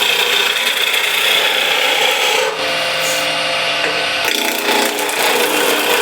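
Skew chisel cutting a wooden spindle spinning on a wood lathe: a continuous scraping hiss of the tool on the wood. The cut lightens for about two seconds midway, then bites again.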